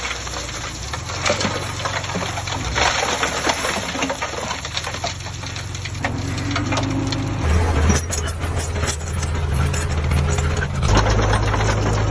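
Diesel engine of heavy earthmoving machinery running, with metallic rattling and clatter; the engine grows louder about two-thirds of the way through.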